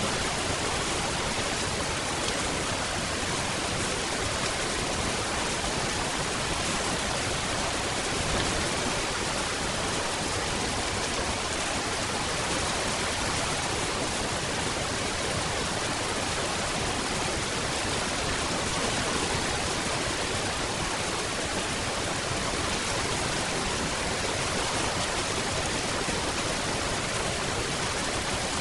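Steady rain: a constant, even hiss without distinct drops or changes.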